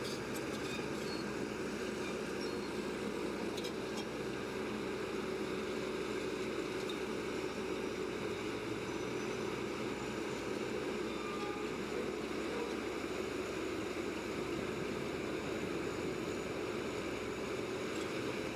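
Bulldozer's diesel engine running steadily, with an even hum and no change in pitch.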